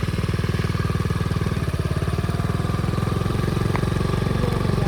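Pit bike's small single-cylinder engine running at a steady speed under way, with evenly spaced firing pulses.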